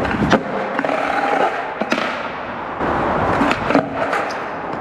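Skateboard wheels rolling over pavement with a steady rumble, broken by three sharp clacks of the board: near the start, about two seconds in, and near the end.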